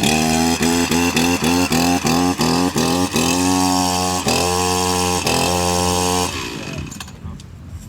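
Chainsaw pull-started and running roughly: short surging pulses about three times a second, then a few longer, steadier runs, before it cuts out about six seconds in. The owner blames the saw being detuned.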